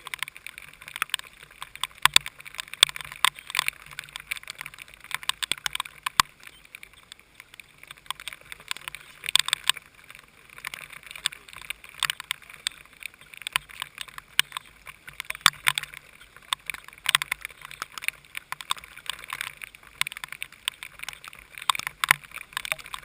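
Heavy rain crackling and pattering irregularly on the camera housing, with water hiss.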